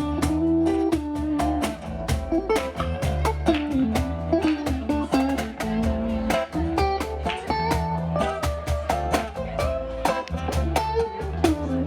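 Live band playing an instrumental passage: guitars with bass and percussion keeping a steady beat under a lead melody line.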